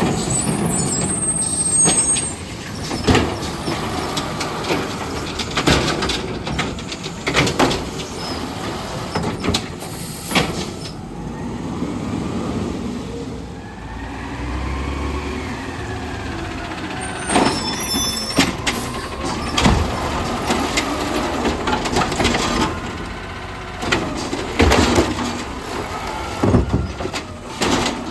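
Garbage truck collecting on its route: the diesel engine revs and falls as the hydraulics work, with repeated bangs and knocks of a trash can being dumped and slammed into the hopper, and short hisses of the air brakes.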